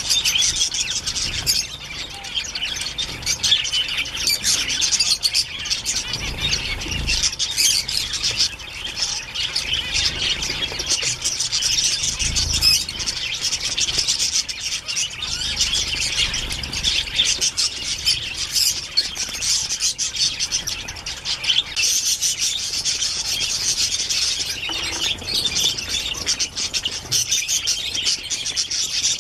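A flock of birds calling without pause, with many short high calls overlapping in a dense chatter.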